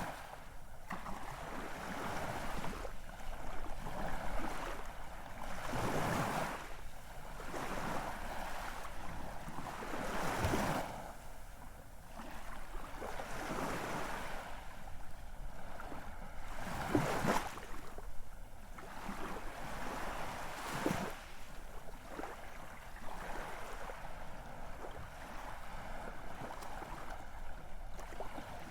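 Ocean waves breaking and washing onto a shore, the surf swelling and falling back every few seconds over a steady hiss.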